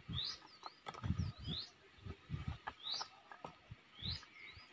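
A bird repeating a short rising chirp every second or so, with soft knocks and thuds of bricks being handled.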